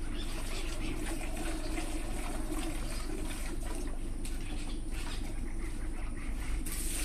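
Milk streaming steadily into a pail as a buffalo is milked.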